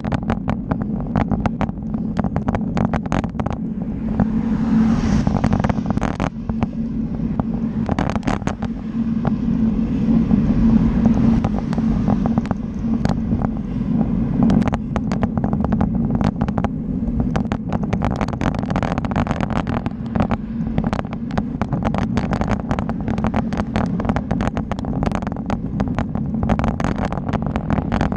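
Riding a bicycle: a steady wind and road rumble on the microphone, with frequent small rattling clicks. A hiss swells and fades about four to nine seconds in.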